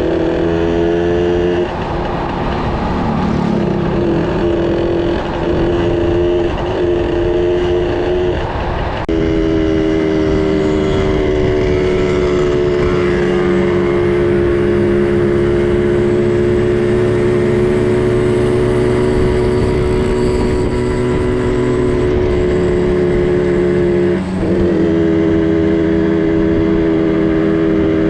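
Small two-stroke minibike engine running steadily at speed under way, holding an even pitch. About 24 seconds in it briefly drops in pitch and loudness, then picks up again.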